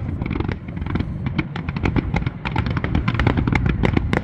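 Fireworks going off in quick succession: many sharp pops and bangs a second, overlapping, over a steady low rumble from the volley.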